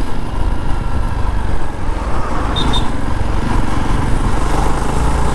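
Jawa Perak's single-cylinder engine running steadily while the motorcycle rides through town traffic, with road noise. A short high double beep sounds about two and a half seconds in.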